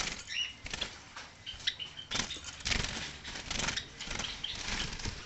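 Caged birds fluttering their wings in repeated rustling bursts, with a few short high chirps.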